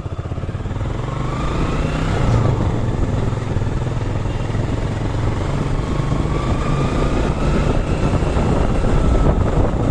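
Suzuki Gixer SF motorcycle engine running under way, the sound building over the first couple of seconds as the bike pulls away, with a steady low rumble.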